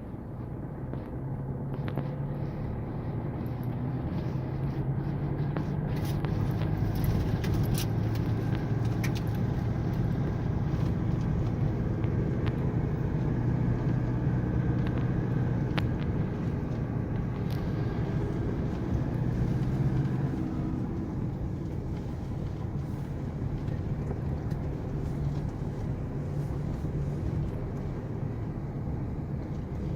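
Off-road vehicle's engine running as it drives along a dirt track, a steady low hum that grows louder for a stretch and eases off about two-thirds of the way through, with scattered knocks and rattles.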